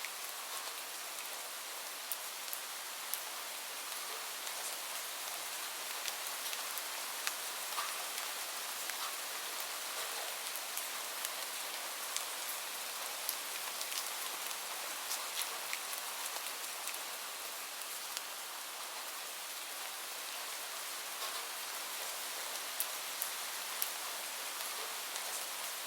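Steady rain falling on a surface: an even hiss with scattered sharper drop ticks throughout.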